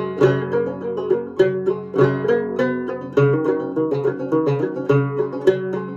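Solo banjo playing the tune: a steady run of plucked and struck notes ringing over each other, with a sharp stroke on the strings every fraction of a second.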